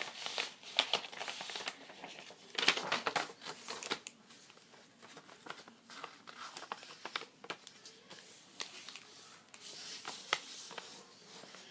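A sheet of paper being folded and creased by hand, rustling and crinkling in short bursts with small ticks, busiest near the start and again around three seconds in.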